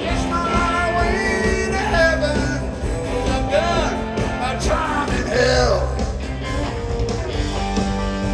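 Live rock band playing: electric guitars, bass and drums, with sung vocal lines bending in pitch over the steady backing.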